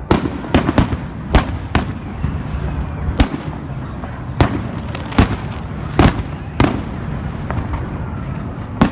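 Fireworks exploding: about a dozen sharp bangs at irregular intervals, some close together, over a continuous low rumble of more distant bursts.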